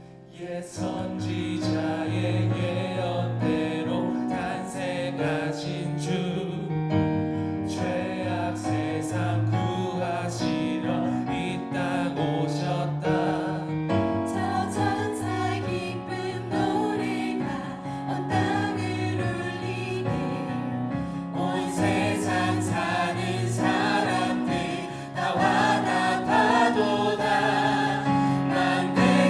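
Church praise team and choir performing a Christmas gospel praise song, voices over piano and band accompaniment with steady percussion; the music gets louder about 25 seconds in.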